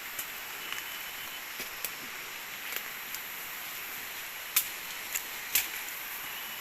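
Forest ambience: a steady high insect drone, broken by a few sharp clicks or snaps, the loudest two about four and a half and five and a half seconds in.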